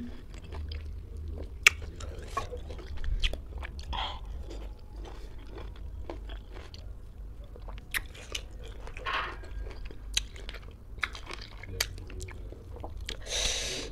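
Close-up mouth sounds of someone chewing juicy dalandan (citrus) segments with closed lips: scattered wet smacks and small clicks. A short, louder hissing burst comes near the end.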